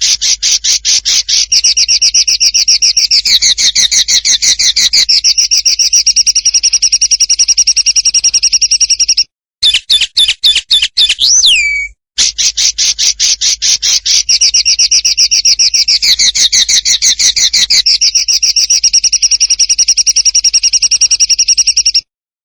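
A songbird's fast trill of sharp, rapidly repeated notes, held for about nine seconds. It gives way to a few quicker notes and one swooping whistle that falls away, then the same long trill comes again and cuts off near the end.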